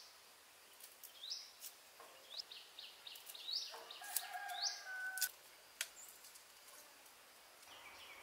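A bird calling with short upward-sweeping chirps, about one a second for the first five seconds, with a brief steady whistled call in the middle. Sharp clicks of a small knife working a garlic clove sound between the calls.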